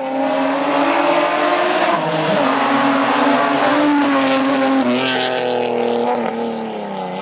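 Rally car engine at high revs, held and edging up for several seconds, then a sudden drop in pitch about five seconds in as the driver shifts or lifts, with the revs falling again near the end.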